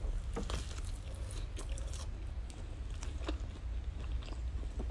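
Close-up biting and chewing of a deep-fried bun with a cheese crust on top and a potato filling, with a few crisp crackles from the crust.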